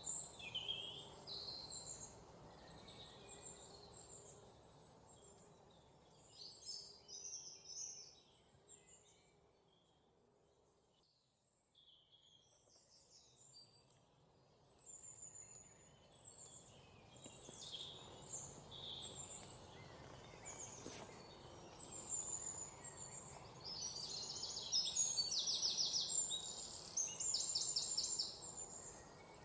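Several songbirds chirping and trilling over a faint steady background hiss. The calls thin out to near quiet about ten seconds in, then grow busier, with fast repeated trills near the end.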